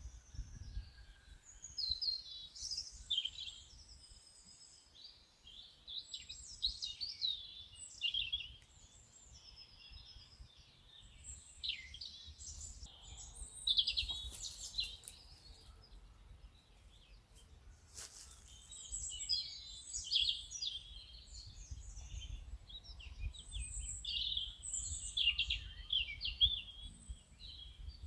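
Several songbirds chirping and trilling in quick, overlapping phrases, over a low steady rumble of outdoor ambience.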